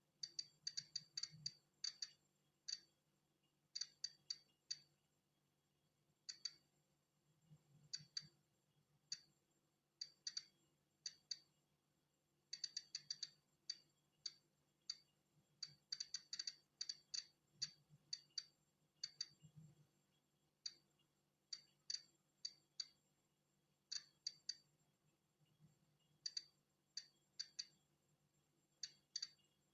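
Polon EKO-C digital Geiger counter clicking at irregular, random intervals, at times several clicks in quick succession. Each click is a detected particle of natural background radiation.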